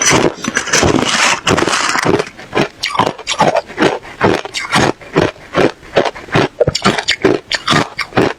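A person chewing ice cubes with loud crunching: a dense crush for about the first two seconds, then rhythmic chewing at about three crunches a second.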